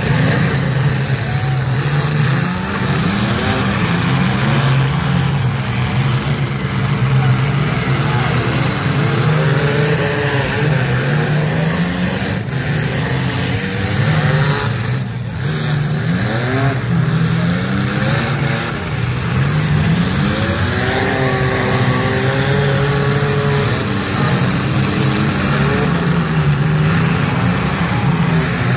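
Several front-wheel-drive demolition derby cars' engines running and revving hard, their pitch repeatedly rising and falling, over a steady hiss of heavy rain.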